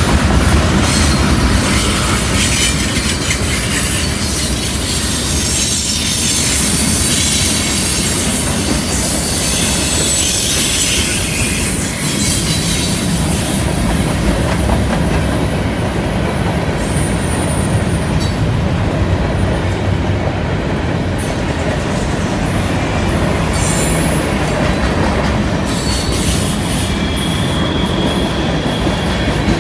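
Freight cars of a slow mixed freight train rolling past on a curve: a steady rumble and clatter of steel wheels on rail. High-pitched flange squeal from the wheels on the curve comes and goes, with short squeals about halfway through and again near the end.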